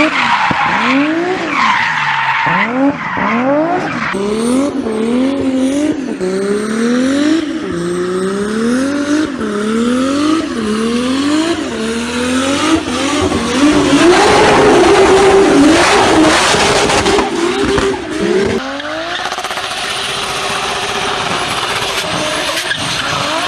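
Toyota Supra engine and exhaust revving hard. The pitch climbs and falls about once a second, then holds high for a few seconds before dropping suddenly.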